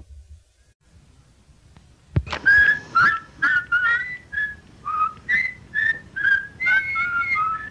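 A person whistling a tune of short, jumping notes. It starts after about two seconds of quiet and a click, at the opening of a song recorded on a dictaphone.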